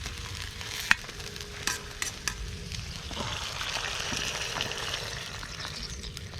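Food sizzling and frying in a carbon-steel wok over a wood fire while it is stirred, with a few sharp metal clinks of the utensil against the wok in the first half.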